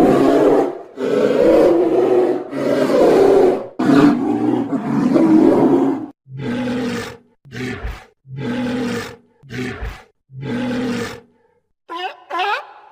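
Lion roaring: a bout of several long, loud roars, then a run of shorter grunting roars about a second apart. Near the end a different animal's short, repeated calls begin.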